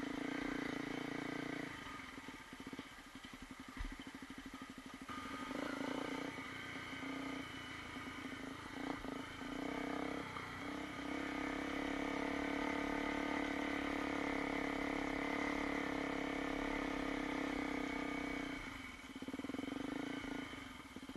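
Honda CRF250L dirt bike's single-cylinder four-stroke engine running while being ridden along a dirt trail. The engine note is steady under throttle, dropping back and going rougher when the throttle eases about two seconds in and again near the end.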